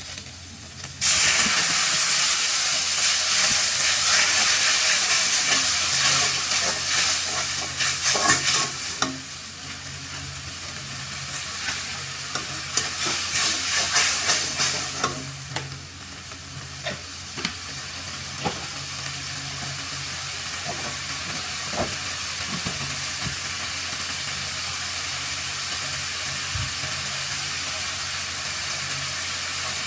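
Food frying in hot oil in a pan: a loud sizzle starts suddenly about a second in, as if something has been added to the oil, and is stirred with a spoon with occasional utensil clicks against the pan. Later the sizzle settles to a steadier, quieter frying hiss.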